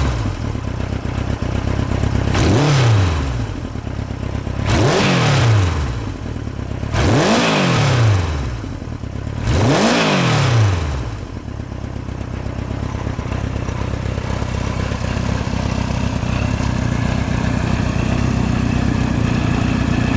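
Kawasaki Z1A's air-cooled 903 cc inline-four engine and exhaust, blipped four times, each rev rising and falling back, then settling to a steady idle for about the second half.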